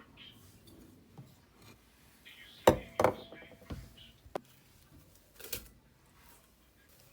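Objects being handled: two sharp knocks in quick succession near the middle, then a few lighter clicks and taps.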